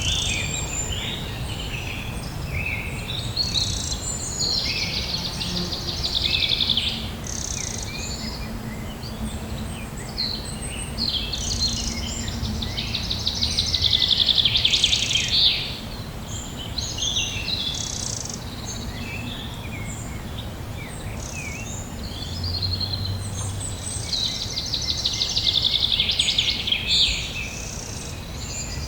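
Small songbirds singing: a busy mix of short chirps and calls, with three long, rapid trilled phrases that swell louder, the last two the loudest. A steady low rumble runs beneath.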